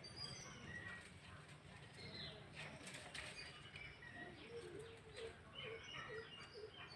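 Faint outdoor ambience with scattered birdsong: short high chirps throughout, and from about four seconds in a run of short, low repeated calls.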